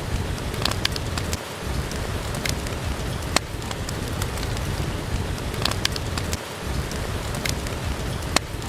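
Steady rain falling, with scattered sharp clicks and pops from a crackling wood fire in a fireplace.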